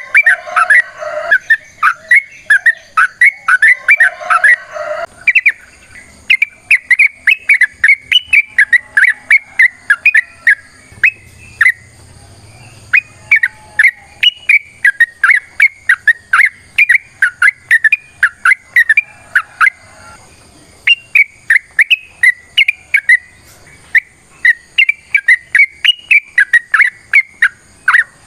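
Yellow-vented bulbul (trucukan) singing a long, fast run of loud, sharp, chattering whistled notes. The song comes in long phrases, with short breaks about twenty seconds in and again a few seconds later.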